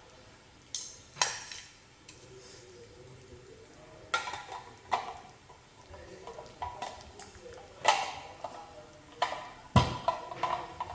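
Parts of a manual meat grinder being handled and fitted together: irregular clicks, clacks and knocks, with louder knocks about a second in, near the middle and near the end.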